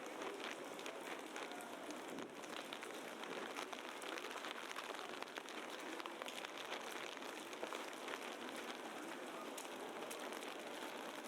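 Heavy wet snow falling on a city street: a steady, rain-like patter made of a hiss and many small scattered ticks.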